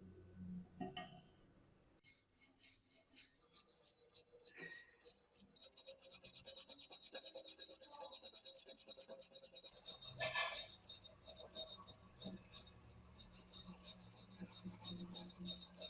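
Rapid back-and-forth abrasive strokes on a metal part, several a second, as rust is worked off an antique hand tool. The strokes start about two seconds in, after a couple of light knocks.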